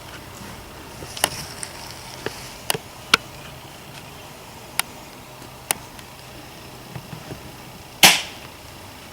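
Airsoft guns firing scattered single shots: short sharp snaps a second or more apart, then one much louder crack about eight seconds in.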